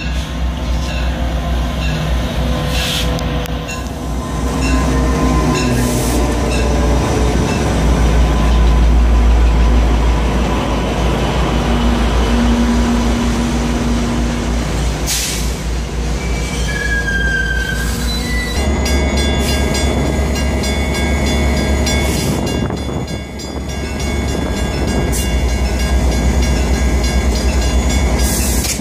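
Metra commuter train hauled by diesel locomotives running through a station: the locomotives come in and pass, then bilevel coaches roll by with a steady rumble of wheels on rail and a brief wheel squeal. About two-thirds of the way in the sound cuts to F59PH locomotive 97 passing a grade crossing, its engine running.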